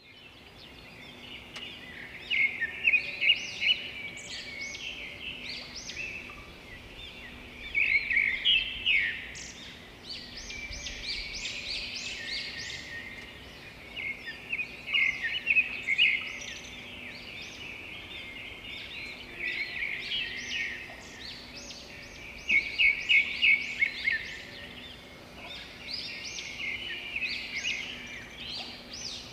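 Many small birds chirping and trilling together, with louder flurries of rapid chirps every few seconds, over a faint steady hum.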